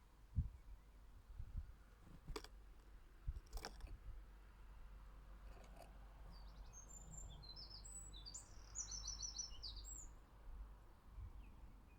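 A small garden songbird singing a short phrase of high chirps in the second half, ending in a quick run of repeated notes. Earlier there are a few low thumps and two sharp clicks.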